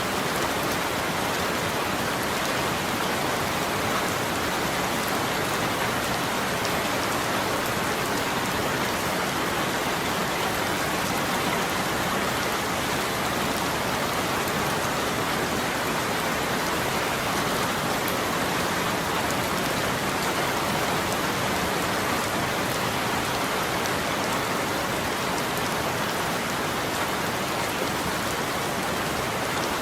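Steady rain falling without a break, an even hiss with faint scattered drop ticks.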